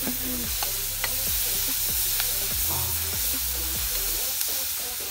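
Onions and tomatoes sizzling as they fry in an aluminium pan on a portable gas stove, stirred with a metal spoon that scrapes and knocks against the pan a few times.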